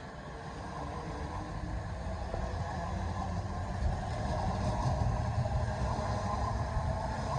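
Electric passenger train running past the platform, its rumble growing steadily louder over several seconds, with a faint steady whine.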